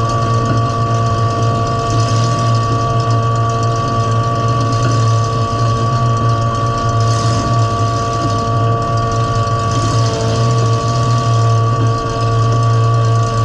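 Demolition derby car's engine idling steadily, with a constant low hum and a few steady tones, heard from inside the stripped cabin.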